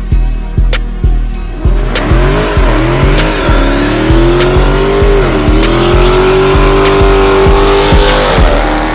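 Music with a steady drum beat; from about two seconds in, a car doing a burnout is heard over it: a loud, held tyre squeal with the engine at high revs. The pitch wavers at first, then holds nearly steady for several seconds, with one dip in the middle.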